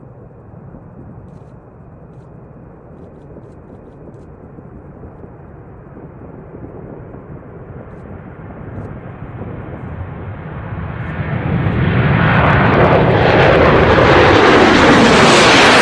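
B-1B Lancer bomber's jet engines, a rushing roar that builds steadily and then swells sharply about eleven seconds in, spreading up into a harsh, hissing top end.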